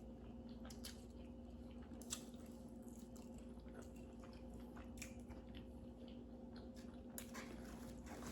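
Faint chewing: irregular soft mouth clicks and smacks of someone eating, over a steady low hum.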